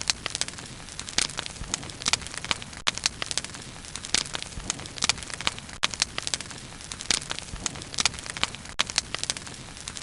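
Wood bonfire crackling: irregular sharp pops and snaps, several a second, over a steady low hiss of burning.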